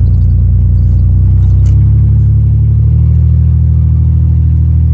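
Chevy 4.3 V6 in a pickup running loud under load, its note stepping up in pitch about two seconds in and again a second later, with a short click just before the first step.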